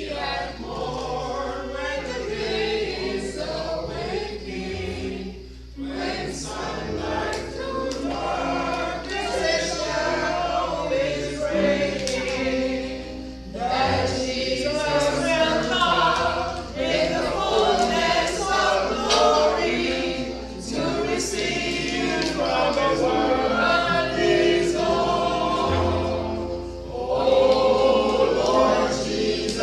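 A group of voices singing a gospel hymn together in harmony.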